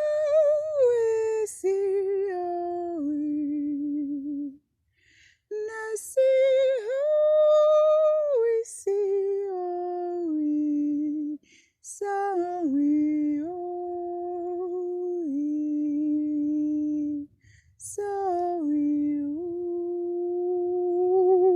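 A woman's unaccompanied singing voice chanting wordless light-language syllables: four phrases of long held notes with vibrato, each stepping down in pitch, split by short breath pauses.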